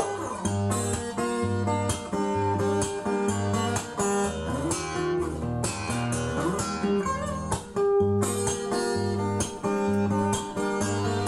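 Guitar-led music with a bass line and regular percussive beats, played back from a vinyl record on a Lenco L30 belt-drive turntable.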